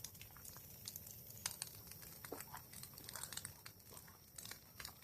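Campfire burning wood, giving off faint, irregular crackles and pops.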